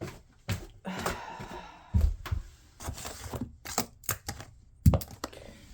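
An irregular run of about a dozen sharp clicks and knocks of hard objects being handled, with a brief rustle about a second in and again around three seconds.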